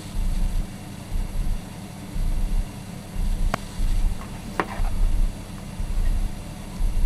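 Handling noise from reassembling a plastic electric kettle: a low rumble that comes and goes in a rhythm of about one pulse a second, with two sharp plastic clicks a second apart near the middle.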